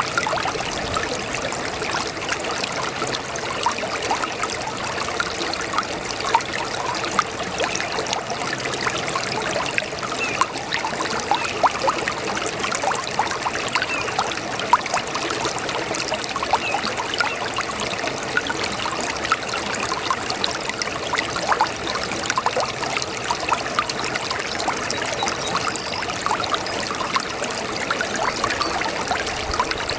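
Shallow brook babbling steadily, water trickling and splashing over stones in a continuous stream of small gurgles and splashes.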